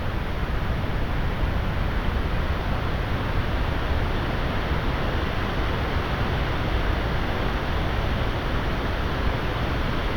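Heavy thunderstorm rain pouring down in a steady downpour, with strong wind rumbling underneath and no thunder.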